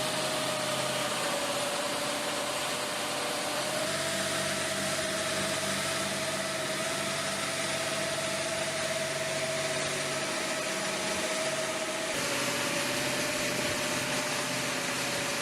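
Engine of a heavy transport vehicle running steadily, with a held whine over a low hum. The sound shifts abruptly about four seconds in and again about twelve seconds in.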